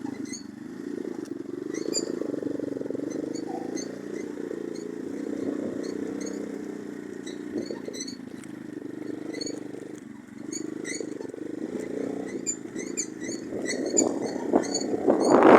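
Orion-100 moped engine running while riding, its pitch and level rising and falling, and getting much louder near the end as it picks up speed.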